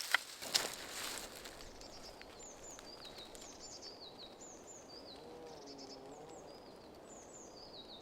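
Two sharp snaps near the start, then a small songbird singing a run of quick, high, down-slurred chirps, repeated over and over.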